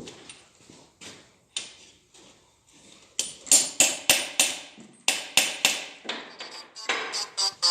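Sharp metallic clicks and knocks of hand tools working on an engine being dismantled, with a run of loud, hard strikes from about three seconds in.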